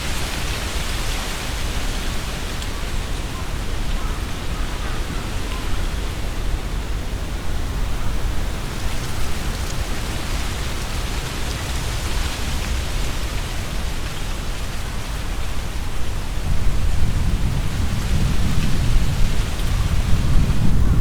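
Strong wind gusting through trees, tree leaves rustling in swelling waves. A low rumble of gusts grows stronger in the last few seconds.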